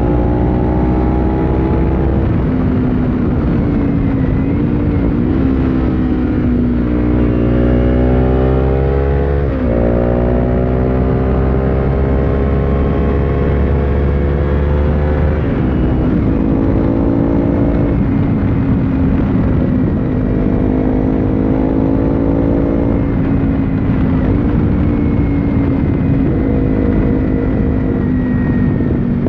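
Kawasaki Ninja 300's parallel-twin engine through an Akrapovic slip-on exhaust, ridden hard. The pitch climbs under throttle and drops at each gear change or throttle lift, over and over.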